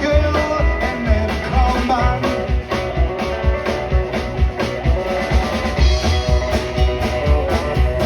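Live rock and roll band playing, with a drum kit keeping a steady beat under guitar.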